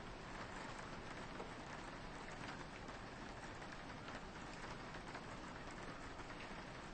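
Soft rain falling steadily, with a patter of individual drops on a window pane.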